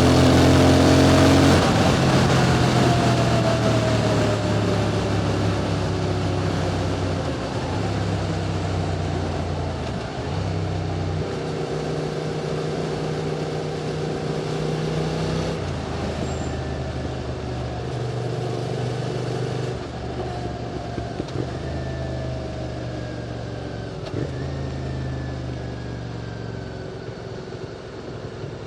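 QJ Motor SVT650X's parallel-twin engine running through an Arrow slip-on exhaust while riding. The engine note drops out and comes back at new pitches several times as the throttle and gears change, over a haze of road and wind noise. It is loudest at the start and grows gradually quieter.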